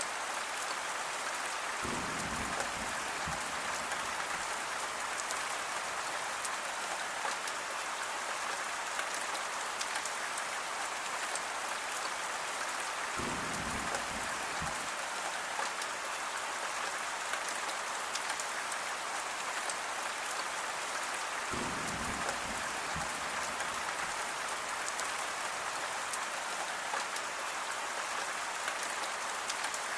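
Steady rain falling as a continuous hiss, with three brief low rumbles, a few seconds into the sound, around the middle and later on.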